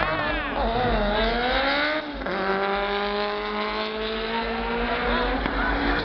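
Audi UrS6 launching at full throttle down a drag strip. The engine note climbs hard in first gear, drops at a gear change about two seconds in, then climbs slowly through the next gear until another change near the end.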